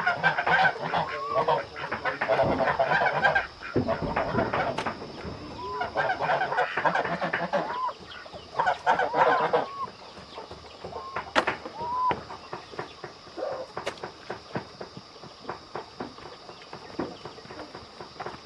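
Chickens clucking and calling, busiest for about the first ten seconds and then thinning to scattered clucks.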